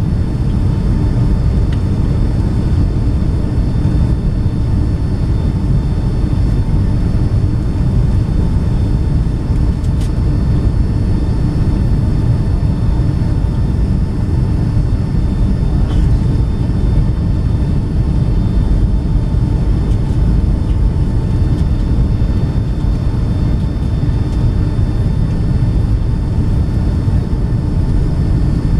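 Steady cabin noise inside a Boeing 757-200 on approach: its jet engines and the airflow make an even rumble, with faint steady engine tones over it.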